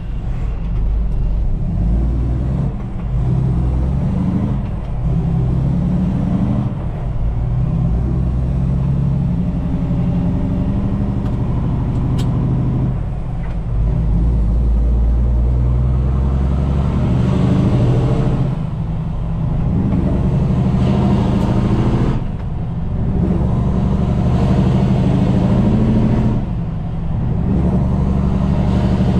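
Heavy truck's diesel engine pulling under load and working up through the gears, the sound dipping briefly at each of four gear changes.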